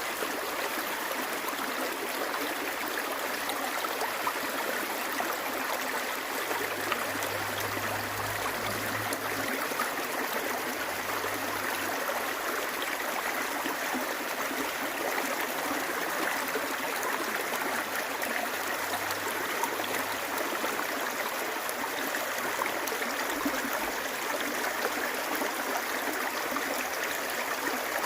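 A creek flowing: a steady rush of running water.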